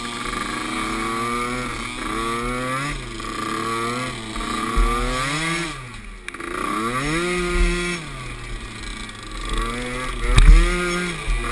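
Small youth ATV engines running and revving, the pitch climbing and falling again and again as riders throttle on and off, dropping low about six seconds in before climbing back. A sharp thump comes near the end.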